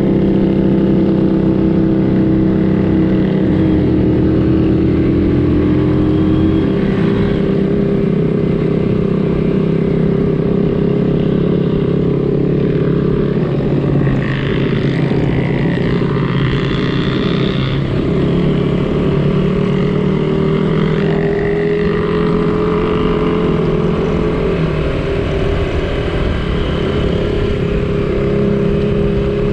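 Small vintage Honda motorcycle engine running steadily under way, its pitch drifting slightly up and down with throttle and road speed.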